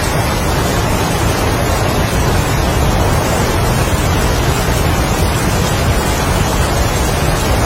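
Heavy rain and strong wind, a steady dense hiss with a deep low rumble.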